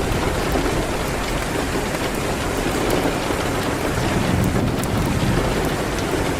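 Steady heavy rain hitting a window, with a deep low rumble that swells a little about four seconds in, and scattered faint sharp ticks.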